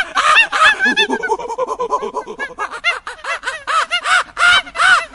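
A flock of birds calling at once: a dense, unbroken run of short, rapid, overlapping calls.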